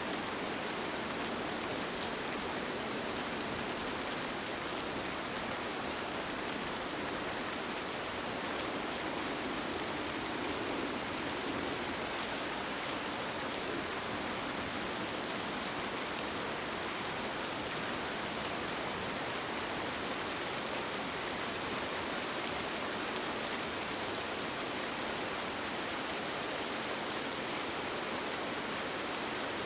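Steady rain on a tent, heard from inside, with faint scattered drops ticking.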